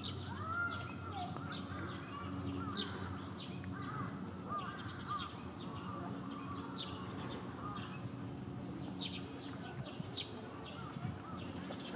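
Small birds chirping in many short, high notes, over a steady low background hum.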